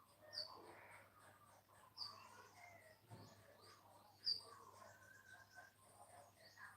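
Faint bird calls: three short, high, falling chirps about half a second, two seconds and four seconds in, the last the loudest, over softer twittering.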